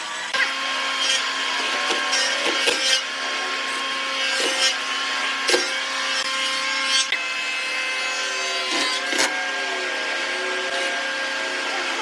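An electric power tool working wood. Its motor hums steadily throughout, broken by scattered sharp knocks and scraping.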